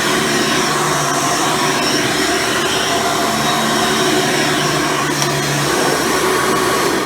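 Hoover Soft & Light Supreme upright vacuum with its 12-amp motor, running steadily at full power while vacuuming.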